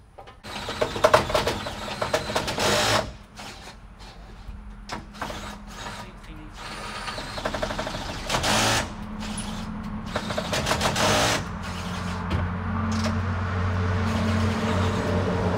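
Machinery running: several loud bursts of hissing, rushing noise, then a steady low motor hum that builds from about halfway in and holds.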